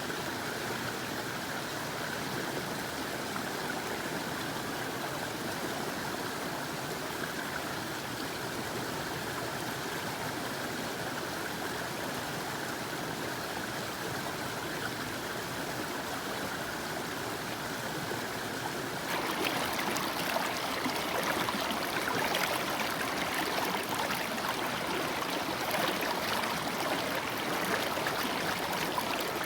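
Water pouring over a small creek waterfall, a steady rush. About two-thirds of the way through it switches abruptly to a louder, brighter, splashier rush from another cascade.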